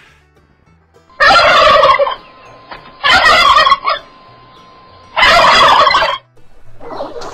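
A turkey gobbling three times, each a loud, rattling call of just under a second, about two seconds apart.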